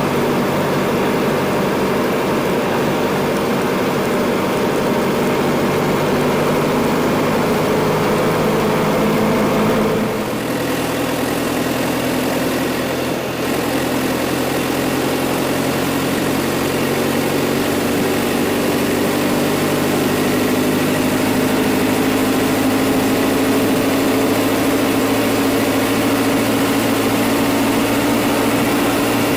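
John Deere 410 loader backhoe engine running steadily. There is a brief dip about ten seconds in, then the engine note climbs slowly through the second half.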